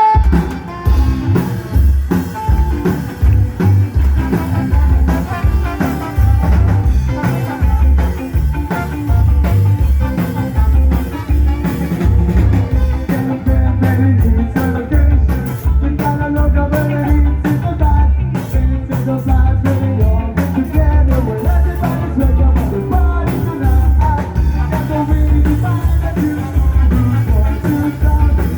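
Live rock band playing a fast, loud song with a heavy, steady bass-and-drum beat, starting abruptly at the top.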